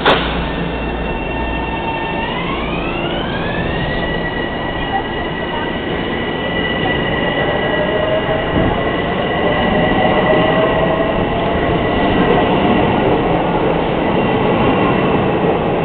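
Metro-North M7 electric train pulling away: its propulsion whine, several tones together, rises in pitch for about two seconds and then holds steady while the wheels rumble on the rails and a fainter tone slowly climbs. A sharp knock sounds right at the start.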